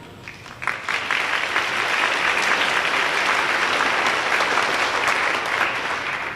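Audience applauding, a dense spatter of handclaps that swells about a second in and dies away near the end.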